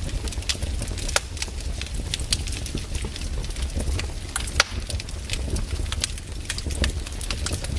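Campfire of burning wood crackling, with frequent sharp, irregular pops and snaps over a steady low rumble.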